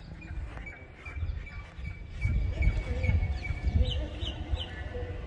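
Small birds chirping: a quick run of short, evenly repeated chirps, then three brief higher notes near the end. Under them a low rumble, louder from about two seconds in.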